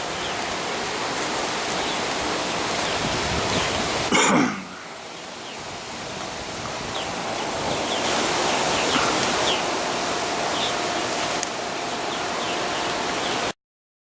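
Steady rain falling, a dense hiss of rainfall. About four seconds in a brief loud noise sweeps downward and the rain drops in level, then builds up again, with a few faint chirps over it; the sound cuts off abruptly near the end.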